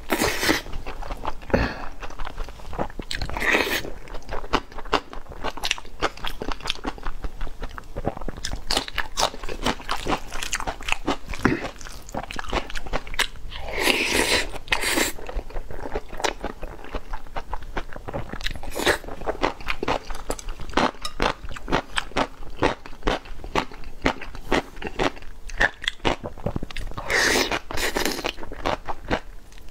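A person eating close to the microphone: steady chewing with many small crunchy bites, and a few louder crunching stretches spread through.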